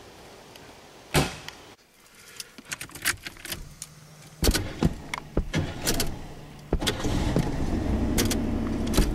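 A car door shuts, then keys click and jingle at the ignition. About four and a half seconds in the starter cranks the engine, which catches about two seconds later and runs steadily.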